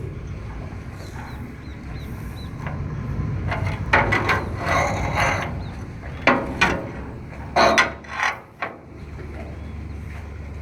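A boat's engine running low and steady while wood scrapes and rubs in several loud strokes through the middle, typical of a hull coming alongside a wooden pier.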